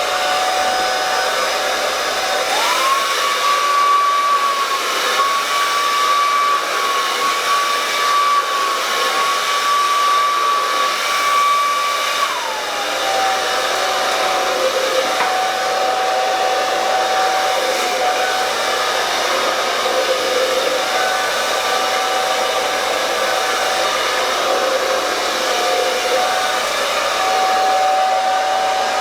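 Hand-held hair dryer blowing, a steady rush of air over a motor whine. The whine steps up in pitch about two and a half seconds in and drops back to its lower pitch about twelve seconds in.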